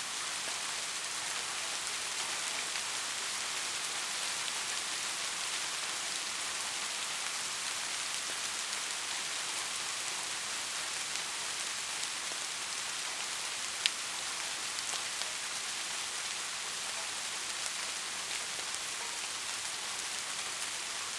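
Steady heavy rain falling on a roof: an even hiss with scattered drop ticks, and one sharp louder drip about fourteen seconds in.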